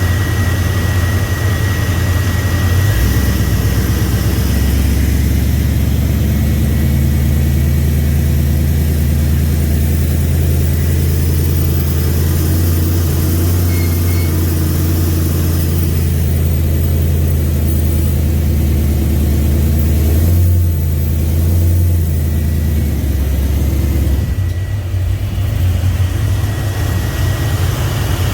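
Chevrolet 5.3 LS V8 running: raised from idle to a steady higher speed about three seconds in, held there, then let back down to idle near the end. The engine has a slight misfire that the owner suspects comes from a lack of fuel.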